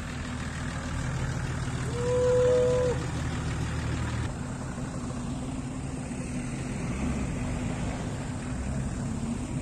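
Off-road vehicle engines running steadily. About two seconds in, a single steady tone sounds for about a second and is the loudest thing heard.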